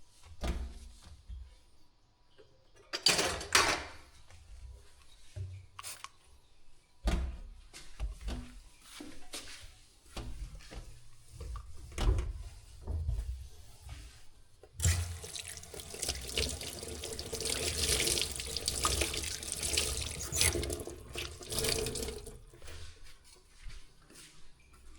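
Scattered knocks and bumps of handling, then a water tap runs into a sink for about seven seconds in the second half and is turned off.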